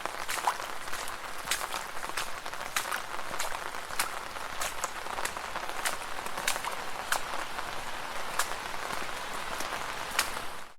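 Footsteps splashing through shallow puddles: a continuous wet patter broken by many irregular sharp little splashes.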